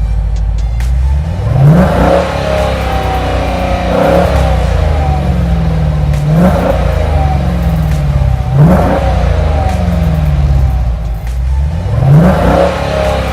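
Car engine revved again and again, about every two to three seconds; each rev climbs quickly and falls back slowly toward idle.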